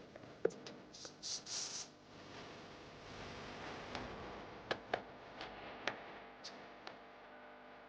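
Scattered small clicks and light knocks, as of blender parts and tools being handled during disassembly, with three short hissing bursts about a second in.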